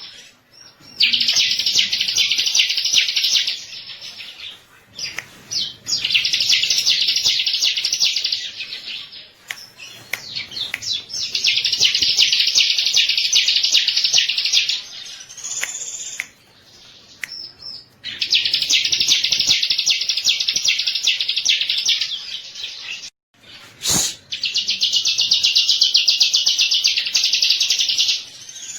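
Bar-winged prinia (ciblek) singing: five bursts of very fast, even trilling, each about three seconds long, with short pauses between them. A single sharp click comes just before the last burst.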